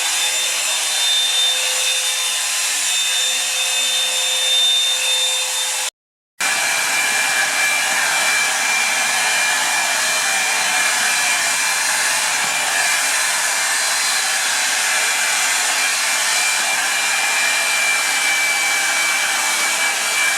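Revlon One Step hot-air brush dryer running steadily: its airflow rush carries a thin whine. The sound drops out for a moment about six seconds in, then comes back with a whine at a different pitch.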